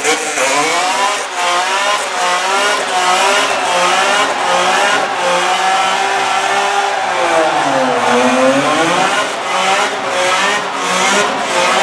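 High-performance car engine at full throttle, its revs swinging up and down in quick succession. About eight seconds in, the revs dip lower and climb back.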